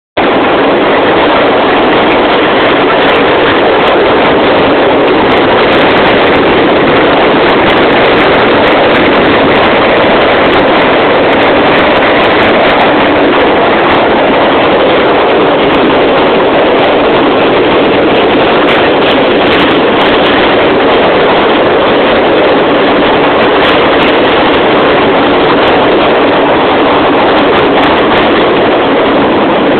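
Loud, steady roar of a passenger train running through a long railway tunnel, heard from on board.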